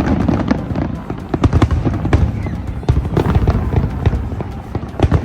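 Fireworks display going off: a dense run of bangs and crackling reports, several a second, over a low rumble, with music playing alongside.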